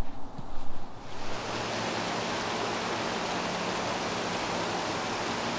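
Steady, even rush of flowing river water, beginning suddenly about a second in after a moment of uneven sounds, with a faint low hum under it.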